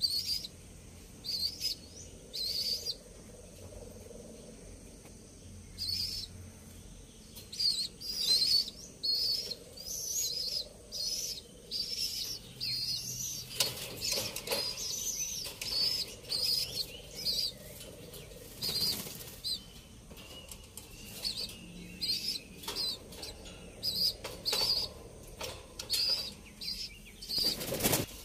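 Small birds chirping over and over, short high calls about once or twice a second, with a couple of brief rustles partway through.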